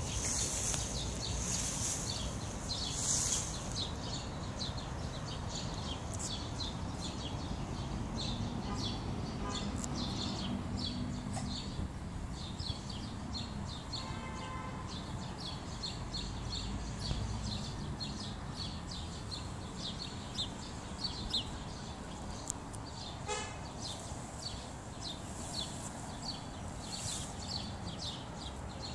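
Small birds chirping steadily over a low outdoor rumble, with two brief pitched tones, one about halfway through and another later on.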